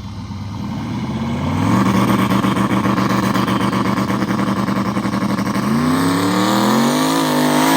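Turbocharged mega truck engine revving up and held at a steady speed with a rapid choppy pulsing, typical of the two-step launch limiter holding revs to build boost. About six seconds in the pitch drops slightly and then climbs steadily as the truck launches and pulls.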